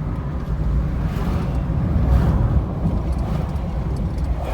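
A car on the move: a steady low rumble of engine and road noise, with a few faint swells of hiss.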